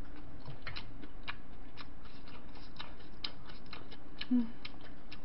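Close-miked chewing of a mouthful of bibimbap: a run of irregular wet mouth clicks and smacks, with a brief low hum about four seconds in.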